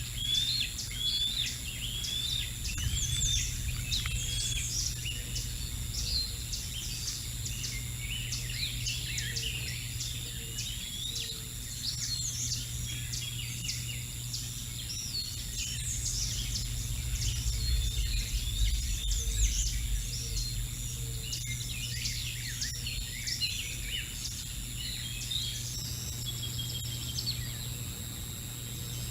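Many small songbirds chirping and singing at once, quick overlapping calls and whistled notes throughout, over a low steady hum with some low rumble.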